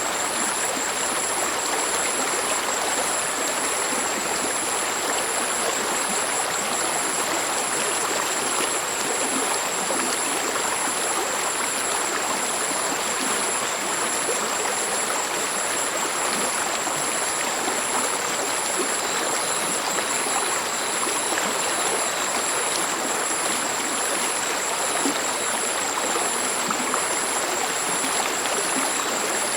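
Stream water flowing and babbling steadily, an even rushing wash with no breaks. Two thin, very high steady tones with a fast pulse run above it throughout.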